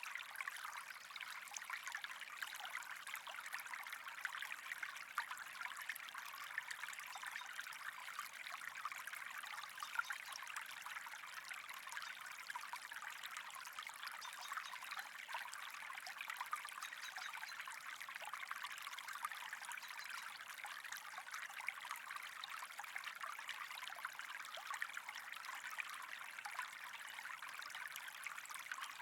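Steady trickling, running water, a constant hiss of many small splashes.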